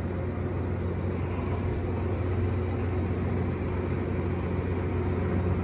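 Tractor engine running at a steady idle, a constant low hum with no change in speed.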